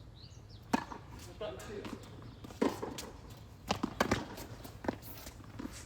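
Tennis ball being struck by rackets and bouncing on the court: sharp pops about a second in, near three seconds, and a quick run of them around four seconds.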